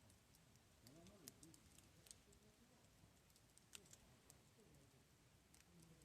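Near silence with a small wood campfire crackling faintly: scattered sharp ticks and pops, the sharpest about a second in and just before four seconds in. Faint low rising-and-falling tones sit underneath.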